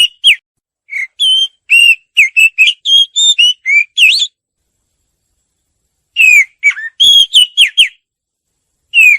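White-rumped shama (murai batu) singing: loud, clear whistled notes that glide up and down in quick phrases. The song breaks off about four seconds in, resumes after a pause of about two seconds, and starts again near the end.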